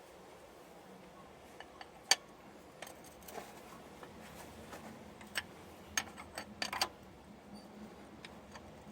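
Scattered sharp metallic clicks and clinks of tools and parts being handled during a truck tire change. They are irregular, with a loud single click about two seconds in and a quick run of clinks a little before seven seconds.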